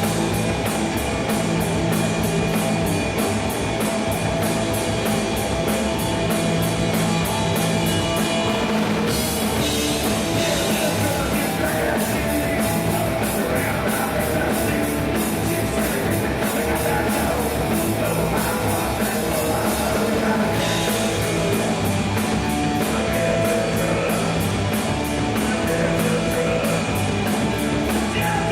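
Punk rock trio of electric guitar, bass and drums playing a song live at full volume. The fast, even high beat drops out about nine seconds in and comes back about two-thirds of the way through.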